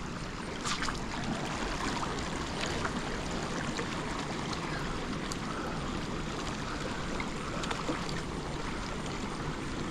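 Steady rush of water pouring through a small dam outflow, with a few faint clicks just under a second in.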